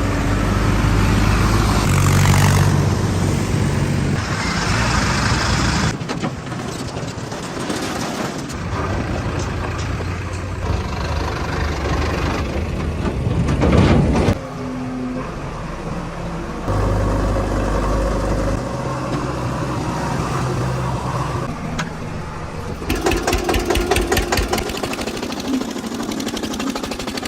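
Fiat tractor's diesel engine running, its sound shifting in level and speed several times, with a louder surge that cuts off abruptly about halfway through and a pulsing stretch near the end.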